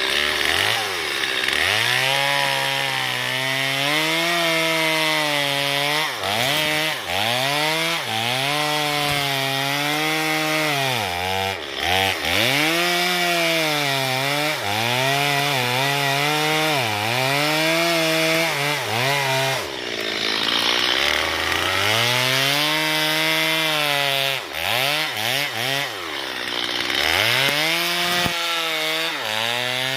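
Chainsaw cutting into a tree for felling, its engine pitch repeatedly rising and sagging as the chain bites into the wood. About twenty seconds in it drops low briefly, then revs up again.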